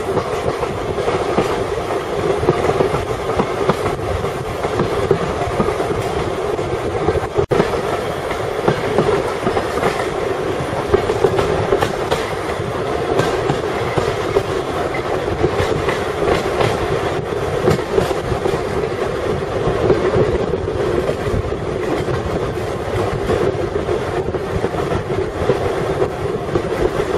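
Railway train running along the track, its carriages rattling with a clickety-clack of wheels over the rail joints. There is a brief dropout about seven and a half seconds in.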